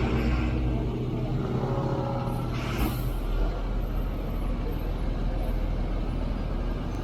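Road traffic beside a bicycle: a motor vehicle's engine running close by until about three seconds in, with a short hiss around then, over a steady low rumble.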